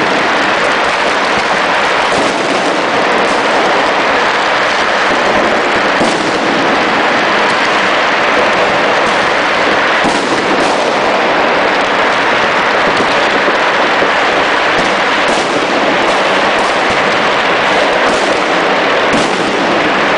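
Chinese New Year firecrackers and fireworks going off in a dense, unbroken barrage: countless overlapping bangs and crackles merge into a continuous din, with sharper separate reports standing out every second or two.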